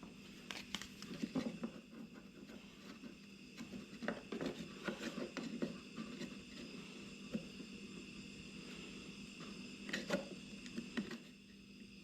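Light clicks, taps and scrapes of small wooden birdhouse roof pieces being handled and set in place to test the fit, in clusters about half a second in, from about four to six seconds, and again near ten seconds, over a faint steady hum.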